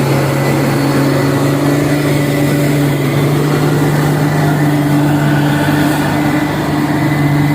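A heavy diesel truck engine running steadily with a low drone, its pitch shifting slightly about three seconds in.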